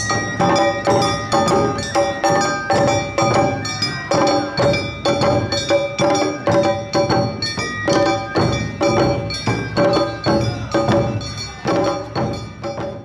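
Awa-odori narimono band music: drums and a bell-like hand gong struck in a quick, steady two-beat rhythm, over sustained melody notes. The music breaks off at the end.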